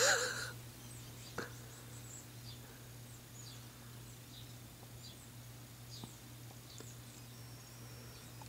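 Faint, short, high chirps of small birds, scattered every second or so, over a steady low hum. A loud burst comes right at the start and a sharp click about a second and a half in.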